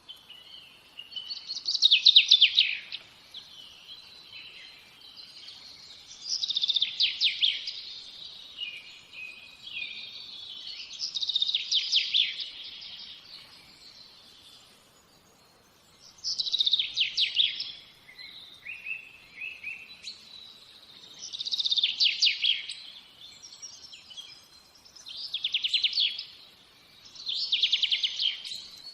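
A songbird singing, about seven times over: each phrase is a quick run of notes falling in pitch and lasts about a second and a half, with softer chirping between phrases.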